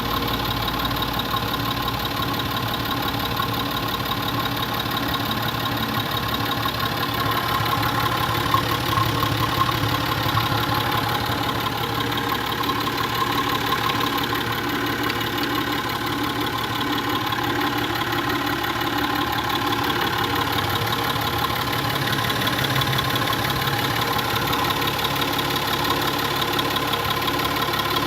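Peugeot 607's 2.7 HDi V6 diesel engine idling steadily.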